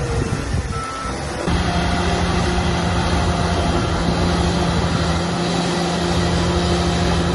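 Shantui bulldozer's diesel engine running steadily under load. The sound thins briefly near the start, then comes back full about a second and a half in.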